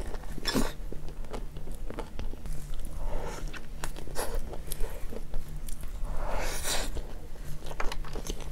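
A person biting into and chewing a cream cheese hot dog: chewing in bursts, with many small mouth clicks.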